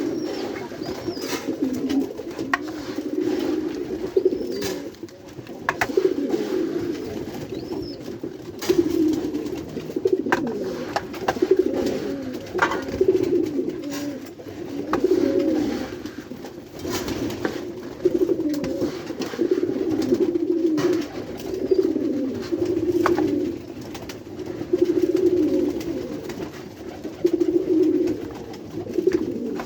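A flock of white pigeons cooing continuously, many low coos overlapping and swelling every second or two, with scattered light clicks.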